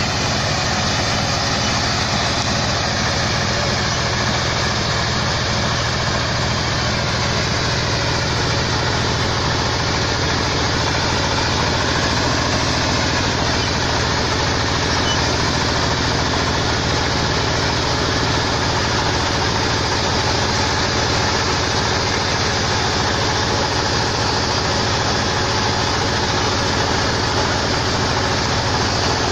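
Mini combine harvester's engine running steadily at a constant speed, an even mechanical drone that does not change.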